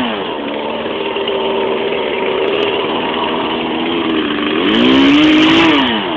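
Two-stroke chainsaw engine running: its pitch drops as the throttle is let off, holds at a lower speed, then revs up again about four and a half seconds in and falls back near the end.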